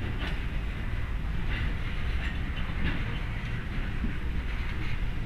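Freight train passing, its covered hopper cars rolling on the rails with a steady low rumble and scattered light wheel clicks.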